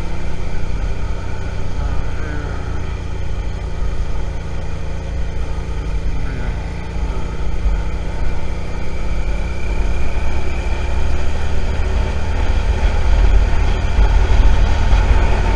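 Suzuki SV650's V-twin engine running at low riding speed, with a steady low rumble and wind on the microphone; it gets a little louder in the last few seconds.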